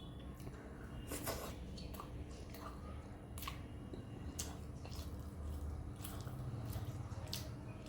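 Close-miked chewing and eating sounds from a mouthful of chicken curry and rice: wet squishy mouth smacks and sharp clicks, scattered irregularly, over a low steady hum.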